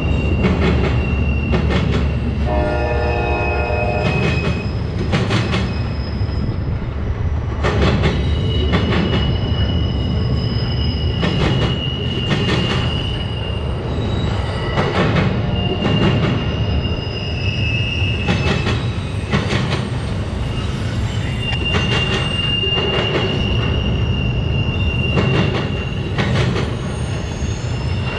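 Freight train of flatcars loaded with railroad ties rolling past. Its wheels squeal in thin high-pitched tones that come and go, over a low rumble and repeated clacks of wheels crossing rail joints. A brief pitched tone sounds about three seconds in.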